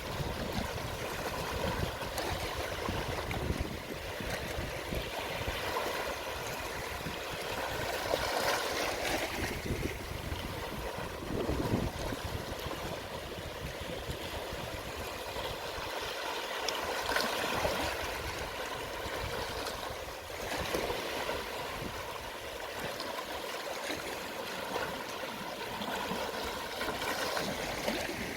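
Gentle, small sea waves washing onto the shore at low tide, swelling and easing every few seconds, with water trickling and gurgling as it drains back.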